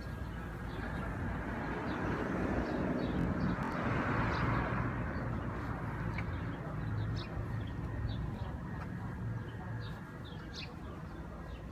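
Outdoor background: small birds chirping over a low steady rumble, with a broad rushing noise that swells and fades about four seconds in.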